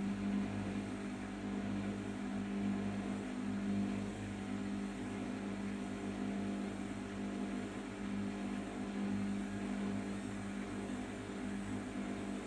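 Arçelik 5083 washing machine running during its rinse-and-spin stage, the motor and turning drum giving a steady hum that swells slightly and regularly about once a second.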